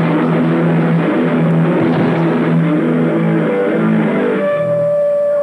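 Heavy metal band rehearsing: distorted electric guitar and bass play a riff, which breaks off about four seconds in, leaving a single held high tone ringing.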